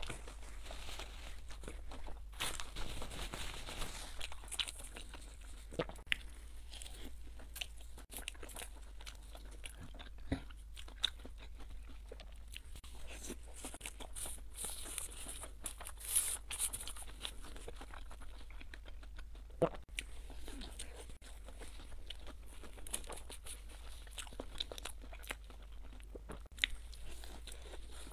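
Close-up chewing and crunching of fried red bean cloud bread, with many scattered crisp crackles over a faint steady low hum.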